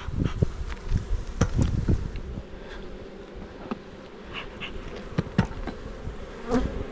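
Honeybees buzzing as a steady hum around an open hive. Several sharp knocks and clicks come in the first couple of seconds, and another near the end, with a low rumble.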